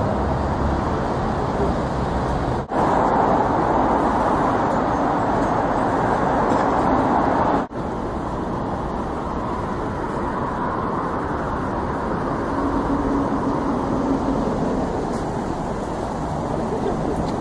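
Steady road and engine noise of a moving vehicle. It is broken twice by a sudden brief dropout, about three and about eight seconds in, where the level steps.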